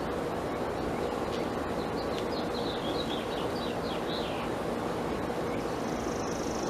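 Honeybees humming around an open hive, with a bird singing a quick run of chirps from about one to four seconds in. A steady high-pitched buzz, like an insect's, starts near the end.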